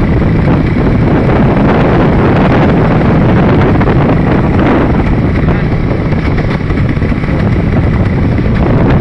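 Vehicle on the move, heard from on board: a loud, steady mix of engine and road noise.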